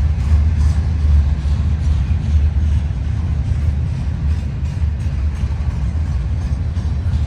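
Freight train rolling by: a steady low rumble with faint irregular clicks.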